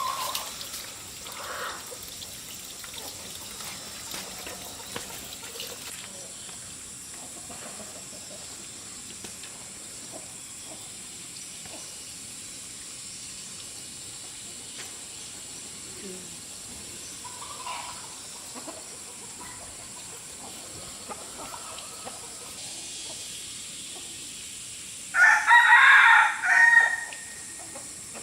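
A rooster crows once near the end, a loud call of about two seconds, over a quiet background with faint scattered chicken clucks.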